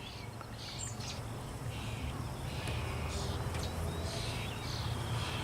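Honeybees buzzing around an open hive as a frame is lifted out for inspection, a steady low hum with soft handling rustles over it.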